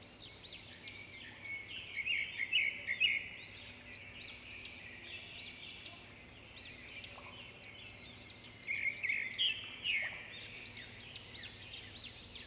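Several small songbirds singing and calling at once: a dense chorus of quick, high chirps and twittering notes. It grows louder about two seconds in and again at about nine seconds.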